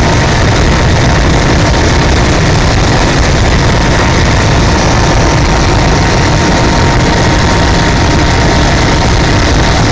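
Helicopter in flight: loud, steady engine and rotor noise with a thin, steady whine, unchanging throughout.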